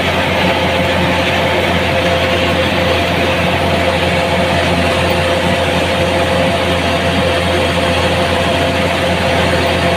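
An engine running steadily at constant speed, a continuous drone with a dense mechanical hiss over it and no change in pitch or load.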